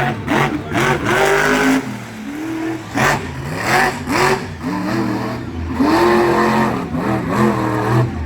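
Monster truck engine revving up and down again and again, its pitch rising and falling in short repeated blips of the throttle.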